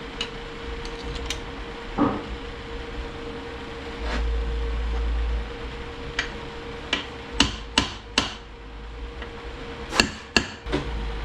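Hammer tapping a Ford AOD transmission's front pump down into the case to seat it. About ten sharp knocks come unevenly, the loudest in two quick runs of three, one past the middle and one near the end.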